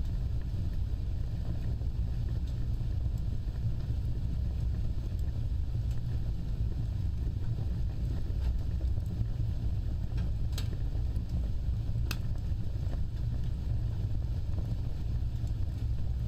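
Wood fire burning with a steady low rumble and sparse crackles, two sharper pops about ten and twelve seconds in.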